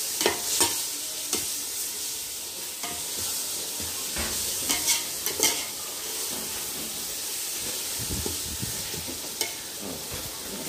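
Onion, tomato and green chilli masala frying in a metal pot with a steady sizzle, while a long metal ladle stirs it, scraping and clicking against the pot several times.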